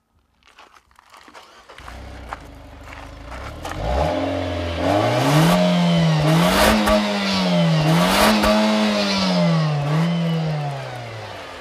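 Nissan Juke Nismo's turbocharged 1.6-litre four-cylinder engine revving hard through its CVT. The revs climb from about two seconds in, then rise and dip three times, and fall away near the end.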